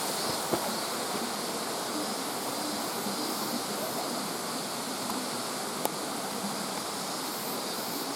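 Steady rush of water from a mountain stream, with a couple of faint short clicks.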